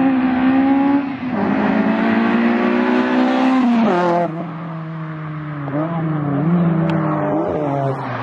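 A car engine revving hard under acceleration. Its high note drops suddenly about a second in and again about four seconds in, as with gear changes, then runs lower with a few short throttle blips.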